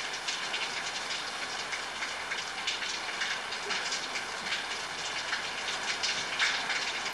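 Steady rain falling, a continuous hiss with many separate drops ticking close by.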